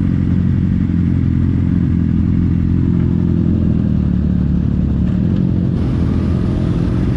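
Motorcycle engine running steadily under way, a low even drone with no change in revs.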